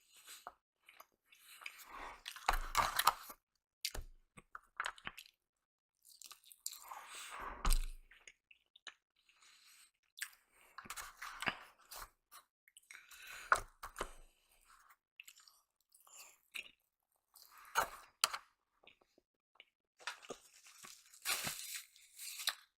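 A person chewing and biting food close to the microphone, in irregular bouts a second or two long separated by short quiet gaps.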